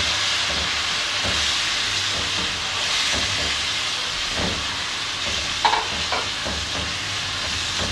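Chicken pieces sizzling steadily in hot oil with ginger-garlic paste in an aluminium karahi as they are stirred with a silicone spatula, with a few short stirring sounds about six seconds in.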